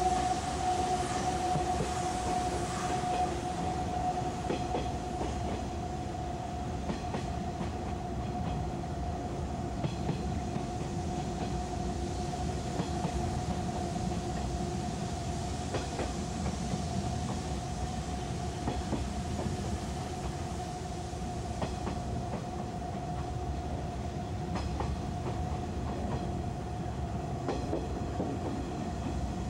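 Interior running noise of a JNR 185 series electric train on the move: a steady rumble with a steady hum over it, and scattered clicks of the wheels over rail joints.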